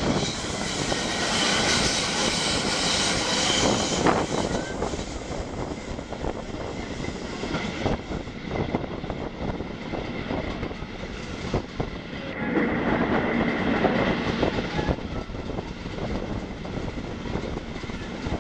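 Running noise of a moving historic passenger train, heard from an open carriage window: wheels rolling on the rails with a steady rush, broken by a few sharp clicks over the rail joints.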